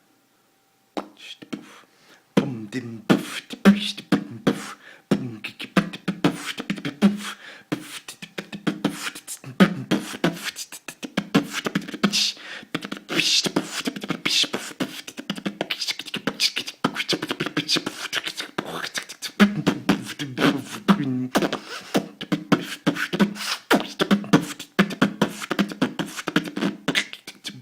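One person beatboxing with the mouth: a fast, continuous run of sharp clicks and pops mixed with short low hummed notes. It starts about two seconds in after a brief silence.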